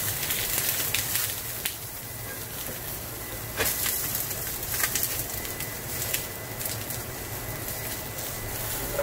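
Yellow squash slices sizzling in oil in a cast-iron skillet, with scattered sharp spits. Under it a range-hood fan runs with a steady low hum.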